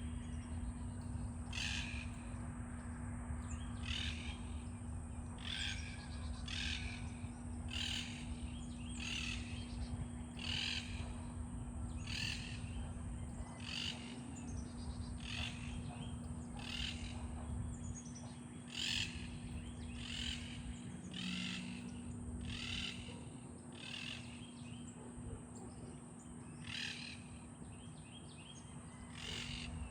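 Two monk parakeets calling back and forth with short, harsh squawks, about one a second, over a low steady hum.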